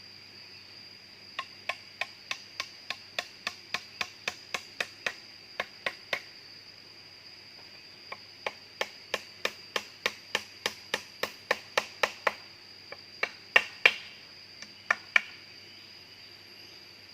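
A tool striking wood in quick repeated blows, about three a second, in two runs with a short pause between, then a few louder strikes near the end. A steady high insect drone runs underneath.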